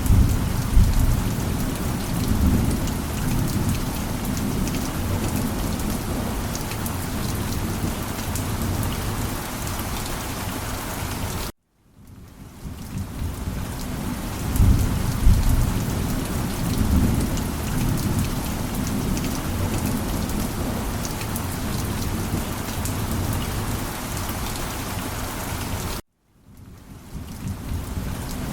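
Heavy rain falling steadily with a deep rumble of thunder, which swells near the start and again about halfway through. The sound cuts out completely for a split second twice and fades back in each time.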